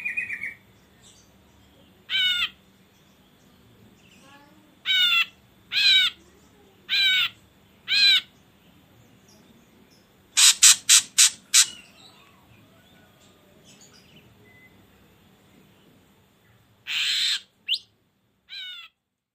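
Ashy drongo calling: short, harsh, wavering notes repeated every second or so with pauses, then a quick run of five sharp notes about halfway through, and a harsher call with two fainter notes near the end.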